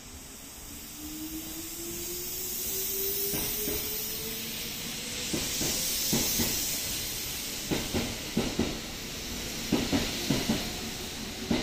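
Kintetsu limited express electric train with a Vista Car running along the platform, its motor whine rising in pitch as it speeds up over a steady hiss of wheels on rail. From about halfway through come regular clacks, often in pairs, as its wheels cross the rail joints.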